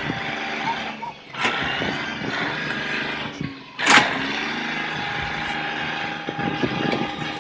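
Tractor engines running across several quickly cut clips, with a sharp bang about four seconds in.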